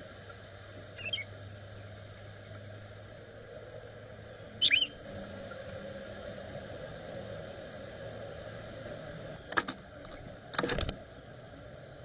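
Bird calls over a steady background hum: a brief chirp about a second in, then a louder sweeping call a few seconds later. Near the end come two sharp knocks, the second drawn out into a short rattle.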